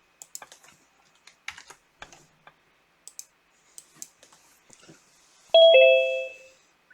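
Scattered computer keyboard and mouse clicks for about five seconds, then a falling two-note electronic chime, a ding-dong, lasting about a second.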